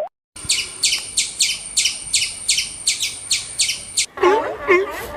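A bird calling a rapid series of high, sharply descending notes, about three a second. About four seconds in, it cuts to a different sound: many lower chirps overlapping.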